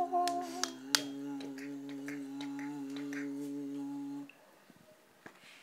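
A voice holding one long, steady final note, with several sharp snapping clicks over it; the note cuts off about four seconds in, leaving near silence.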